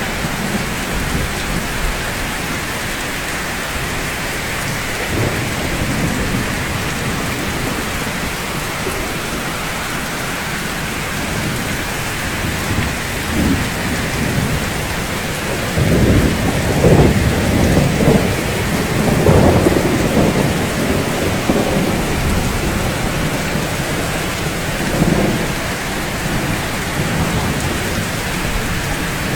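Steady rain falling, with low rolling thunder rumbling about halfway through and again briefly near the end.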